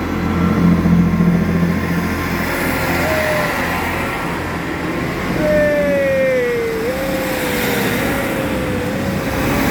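Steady low drone of a moving road vehicle, with a long wavering tone that dips and rises over the second half.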